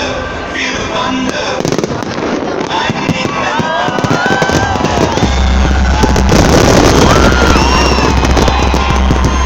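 Fireworks crackling and popping in a dense, continuous run over background music, with a steady low bass coming in about halfway through.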